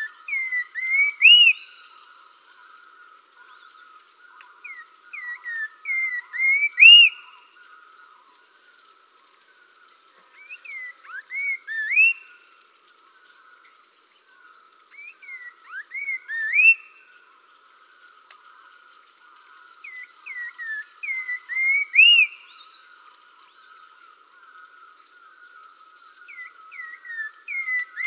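A songbird repeating a short song phrase about every five seconds, six times: a few quick sliding whistles climbing to a louder upslurred final note. A steady, faint, high chatter runs underneath.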